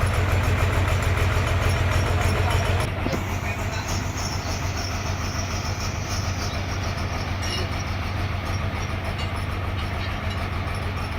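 Sawmill machinery running steadily with a deep hum and a fast, even clatter. About three seconds in it drops noticeably quieter and the deep hum fades, then carries on at the lower level.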